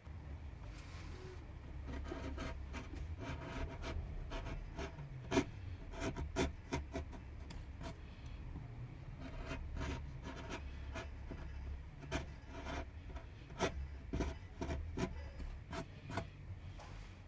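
Carving tool cutting and scraping pine wood by hand: a run of irregular short scrapes and small clicks, the sharpest about five seconds in.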